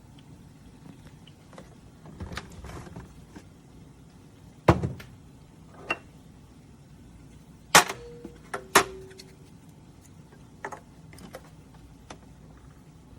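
A series of clicks, knocks and a short rattle from things being handled and set down, with one dull knock about five seconds in and two sharp clinks a second apart near the middle, each ringing briefly.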